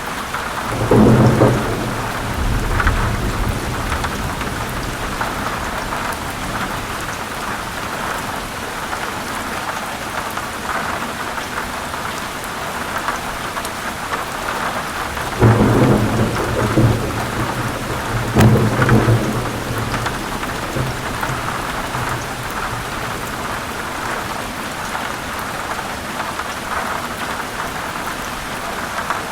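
Heavy rain falling steadily on forest leaves, with rolls of thunder rumbling low three times: about a second in, then twice more in quick succession a little past the middle.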